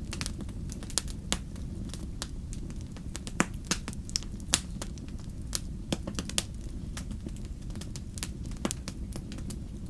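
Wood fire crackling in a fireplace: a steady low rumble of flames with frequent irregular snaps and pops, a few louder pops in the middle.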